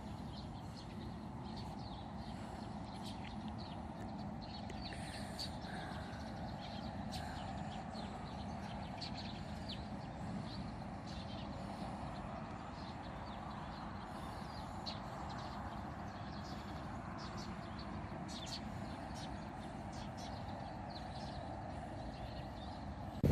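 Small birds chirping in short, repeated calls over a steady background noise.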